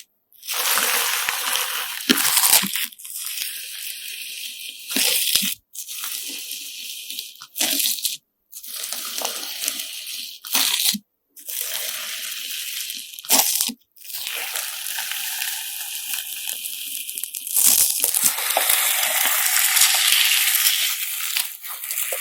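Slime mixed with coloured sand being squeezed and pressed by hand, giving crunchy, crackling sounds. These run in short stretches broken by brief silent gaps and grow denser and louder near the end.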